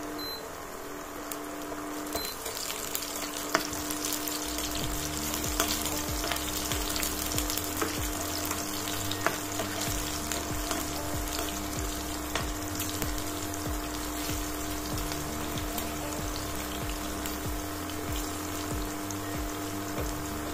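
Chopped garlic, ginger and green chillies sizzling steadily in hot oil in a non-stick kadai, with occasional taps and scrapes of a metal slotted spatula stirring them. Soft background music with a pulsing bass comes in about four seconds in.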